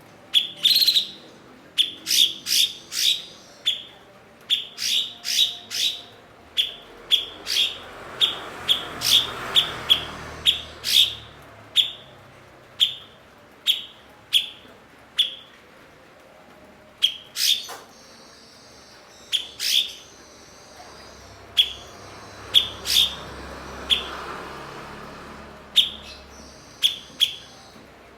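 A cucak cungkok bird calling over and over in short, sharp, high notes, each dropping quickly in pitch, mostly one or two a second, with brief lulls.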